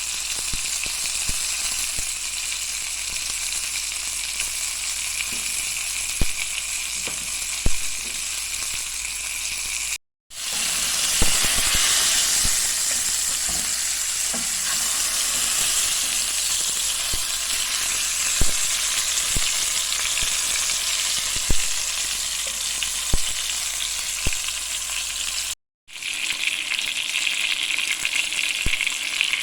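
Food sizzling steadily in a hot pan, with occasional sharp taps. The sound cuts out briefly twice.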